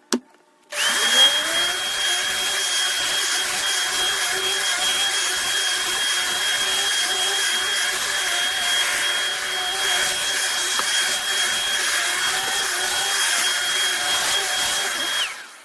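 Shark AZ2002 Vertex upright vacuum switched on with a click, its motor spinning up within a second to a steady high whine over a rushing airflow noise, running on its thick-carpet/area-rug setting. It winds down and stops near the end.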